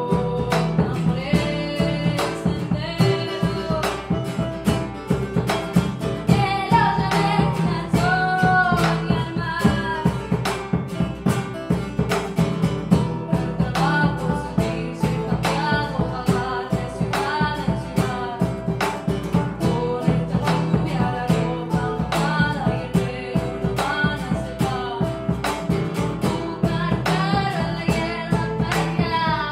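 Live band music: a woman singing a melody over steadily strummed guitar.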